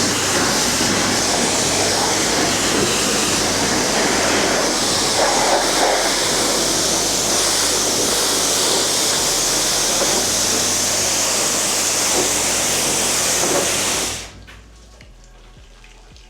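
Water spraying onto the car in a loud, steady hiss, shut off suddenly about fourteen seconds in.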